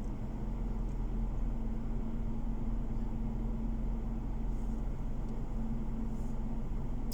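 Car driving on the road, heard from inside the cabin: a steady low rumble of engine and tyres with a constant hum.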